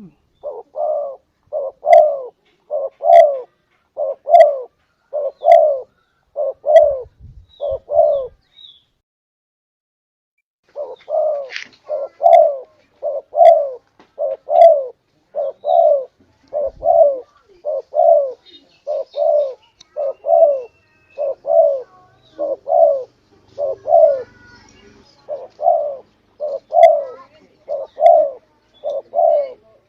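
Spotted dove (tekukur) cooing, a lure-call recording: a long run of low coo notes, about two a second, with a pause of about two seconds about a third of the way through.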